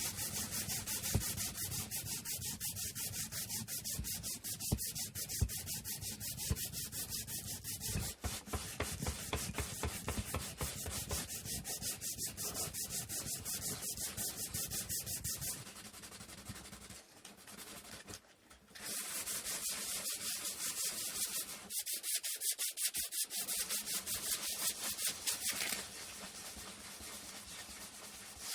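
Sandpaper rubbing on wood in rapid back-and-forth hand-sanding strokes. The sanding eases off in the middle for a few seconds, starts again, and softens near the end.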